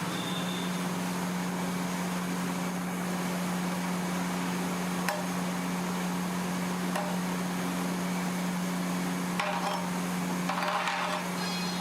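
A steady low mechanical hum over a hiss, with a couple of sharp clicks and brief clattering near the end.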